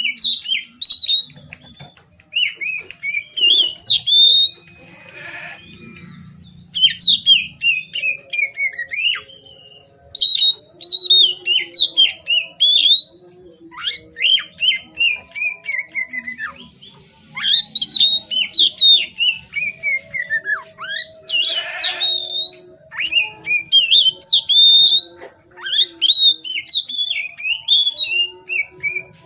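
Oriental magpie-robin singing in repeated bursts of rapid whistled phrases, many notes sweeping downward, with short pauses between bursts.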